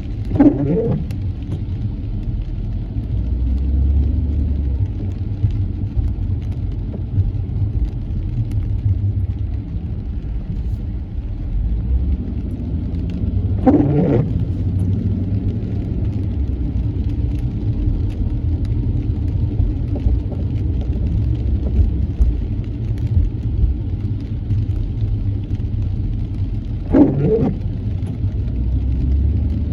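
Steady low rumble of a car's engine and tyres heard inside the cabin while driving in the rain. Three times, about every 13 seconds, a brief sweep of the windshield wipers on an intermittent setting.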